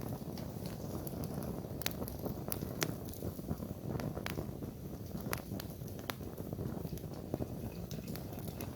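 Wood fire burning, with irregular sharp crackles and pops over a steady low rush of flames.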